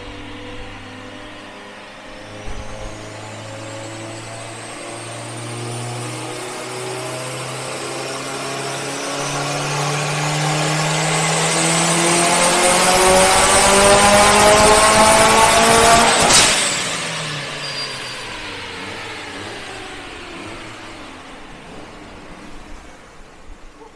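Turbocharged Subaru STi flat-four on a chassis dyno making a full-throttle power pull: the engine note and a high turbo whistle climb steadily through the rev range for about fourteen seconds, growing louder. It ends with a sharp crack as the throttle closes, then the engine and dyno rollers wind down.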